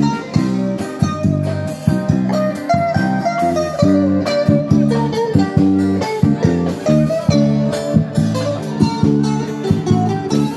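Buskers playing a bossa nova on guitars: plucked chords in a steady rhythm under a melodic line.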